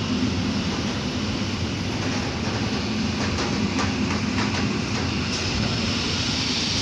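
Koleje Mazowieckie electric multiple unit rolling along the platform with a steady rumble. Its wheels click over rail joints a few times midway. A high hiss comes up near the end.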